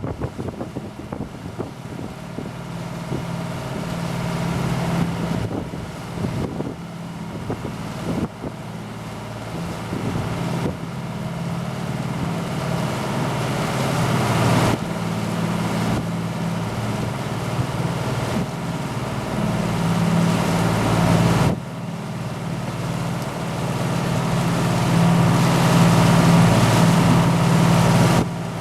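A motor yacht's engines run with a steady low hum at slow cruising speed, with wind rushing over the microphone in gusts that build toward the end.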